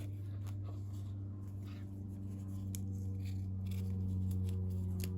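A steady low hum with a few faint, scattered clicks of small parts being handled.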